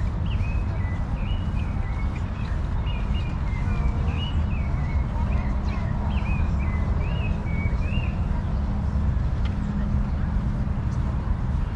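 A bird chirping in short, repeated, sliding calls over a steady low rumble; the calls stop about eight seconds in while the rumble goes on.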